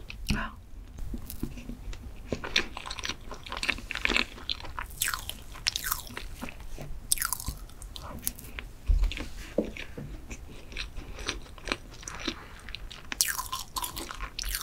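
Close-miked mouth sounds of eating chocolate mousse cake with a spoon: soft chewing, wet smacking clicks and swallowing, in an irregular stream. A low thump stands out about nine seconds in.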